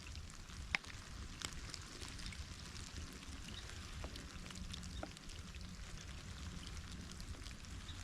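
Rain falling steadily as a hiss, with many scattered sharp ticks of individual drops striking close by; one louder tick comes about three-quarters of a second in. A low rumble runs underneath.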